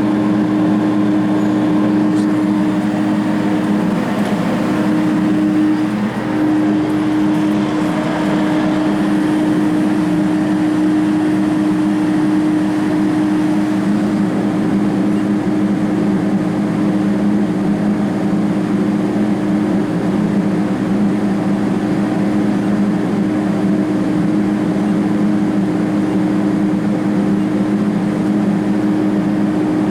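Hyundai/Kia D4CB four-cylinder diesel engine running steadily at a constant speed during an oil pressure check, with a steady hum that holds the same pitch throughout.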